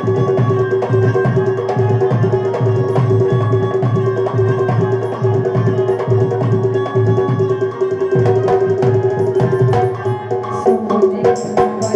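Instrumental interlude of a Rai folk song: hand drums beating a steady, fast rhythm under a sustained held tone. Near the end, sharp high jingling strokes join the drumming.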